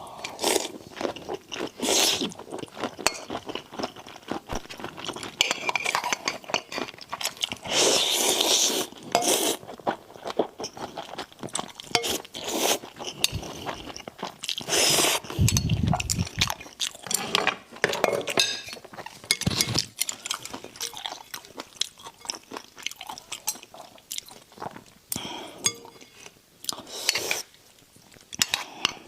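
Close-miked eating: chewing and crunching with many short clicks, and utensils clinking and scraping against dishes. There is a low bump about halfway through.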